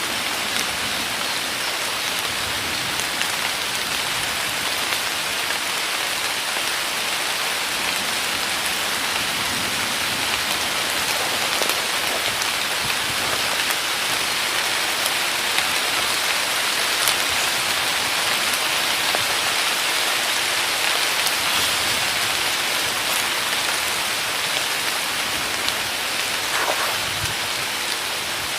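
Heavy rain pouring steadily in a forest: a dense, even hiss of falling water with occasional sharper single drop hits.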